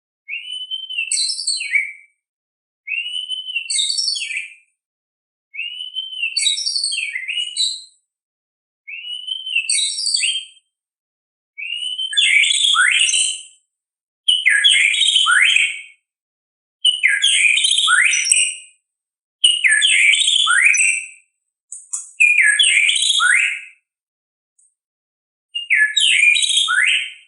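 White-rumped shama (murai batu) singing a string of short song phrases, one about every two and a half seconds. The first several phrases open with an arched whistle; from about halfway on they grow louder, with falling sweeps and harsh high notes.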